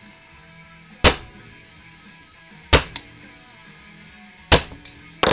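Four sharp hammer strikes on a flattened metal beer bottle cap, punching its four holes through again from the back side. The strikes come roughly one to two seconds apart over quiet background music.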